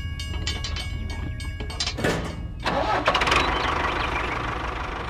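Mini tractor engine starting: a steady low hum, then from about two and a half seconds in a louder, busier running sound as smoke puffs from the exhaust.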